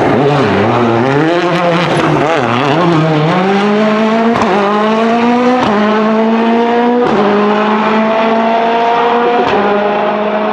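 Citroën DS3 WRC's 1.6-litre turbocharged four-cylinder engine under hard acceleration. The revs rise and fall over the first few seconds, then climb steadily through four quick upshifts, each a brief cut in the sound as the pitch drops back.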